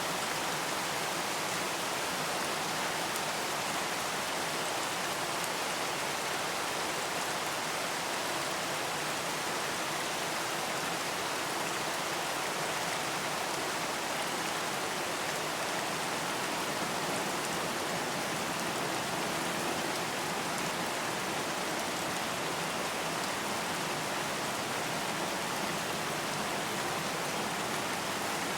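Steady rain falling on a surface, an even hiss with faint scattered drop ticks and no change in intensity.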